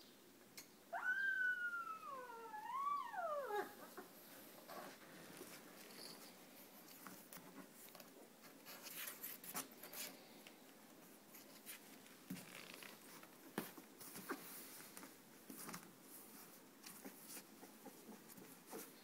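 A young Bernese Mountain Dog puppy gives one long, wavering whining cry about a second in, rising and dipping in pitch before falling away. Faint scattered clicks and rustling follow.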